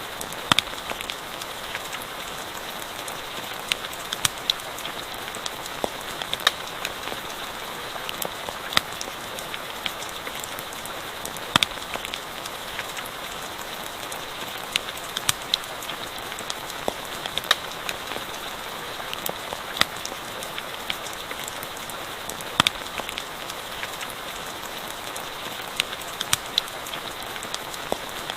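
Steady rain falling, with scattered sharp pops and crackles from a campfire at irregular intervals.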